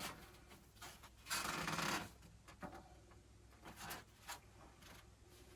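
A soft scraping rub of under a second, then a few faint clicks, as a styrofoam rafter vent is handled and folded.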